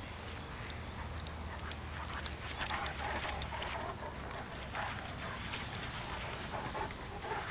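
Great Dane running laps, with irregular soft thuds and scuffs of its paws.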